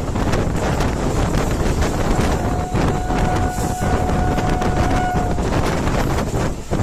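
Moving train running loud, with rushing wind and clattering rattle. A steady high tone sounds for about three seconds in the middle.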